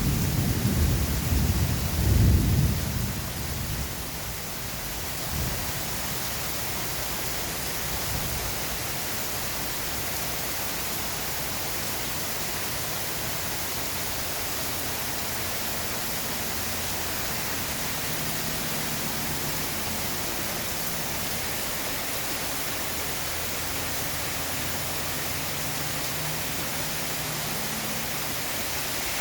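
Steady hiss of heavy rain. A low rumble of thunder in the first few seconds dies away.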